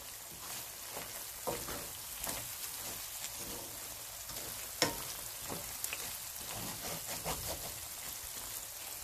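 Ginger-garlic and chilli masala sizzling in oil in a steel frying pan, the spice powders being sautéed to cook through. A wooden spatula stirs it, adding scattered scrapes and taps over a steady sizzle, with one sharper tap a little before five seconds in.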